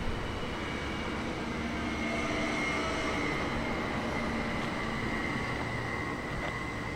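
A train running, a steady rumble with a high thin tone that comes in about two seconds in and holds.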